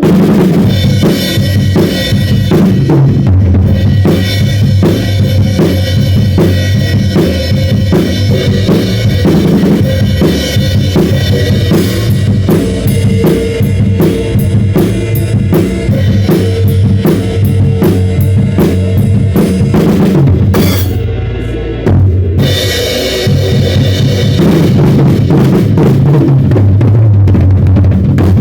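Drum kit playing a steady groove with bass drum, snare and cymbals over full band music. The drums drop out briefly about twenty seconds in, leaving a low swell, then come back in with the band.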